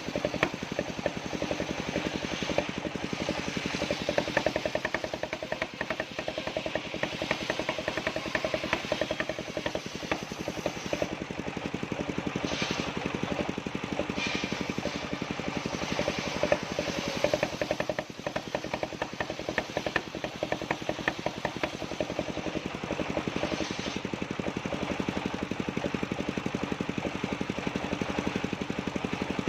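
Engine of a circular-saw sawmill running steadily with a fast, even firing beat.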